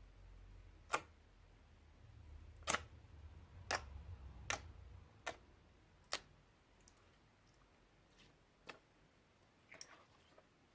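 Slime being mixed by hand, giving a series of sharp, irregular clicks and pops, about eight in all, most of them in the first half.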